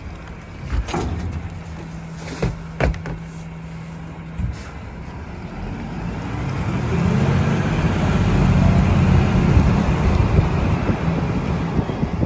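Garbage truck idling with a steady hum and a few sharp clanks, then about six seconds in the engine revs up and stays loud as the truck packs its load.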